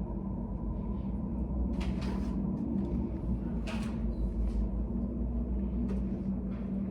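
Steady low room rumble of a study cafe with a faint hum, and two short noises, like something being handled, about two and four seconds in.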